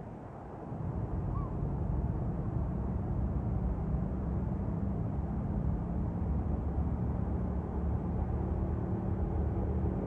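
A motor running with a steady low hum that grows louder over the first second or two, with one faint short chirp early on.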